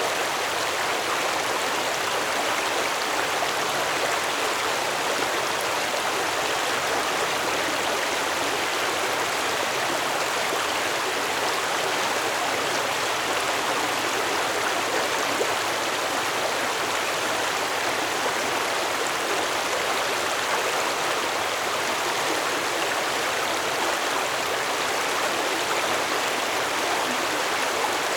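Stream water flowing steadily over rocks, a constant rushing and babbling.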